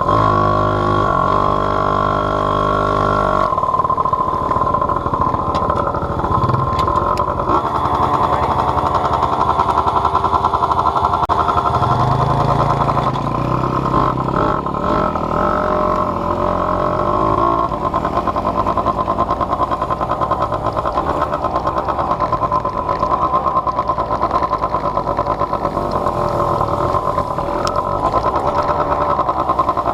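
Small off-road vehicle engine running under way, its revs changing several times as it rides.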